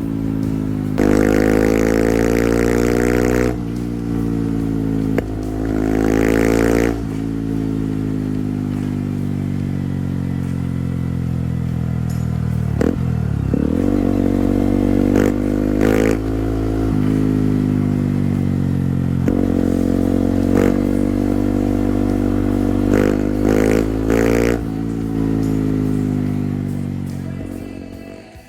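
Beta 125 motorcycle engine under way, the revs rising and falling again and again. About halfway through the revs drop right down before climbing again, and the engine sound fades away near the end.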